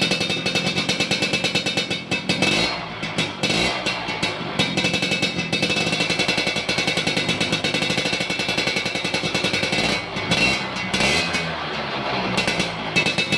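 Yamaha Alfa's two-stroke single-cylinder engine running through a gutted, unbaffled F1ZR exhaust, revved up and dropping back twice, about three seconds in and again near the end.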